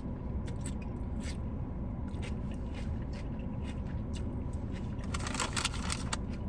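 Close-miked chewing and biting of food, a run of short wet mouth clicks and crunches that gets busier near the end, over a steady low hum.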